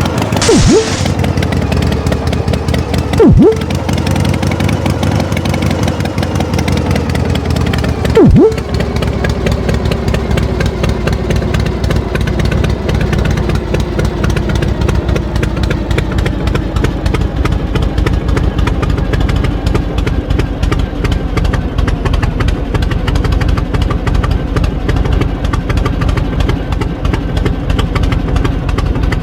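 Tractor engine idling steadily. Three brief loud sounds stand out over it, about half a second, three seconds and eight seconds in.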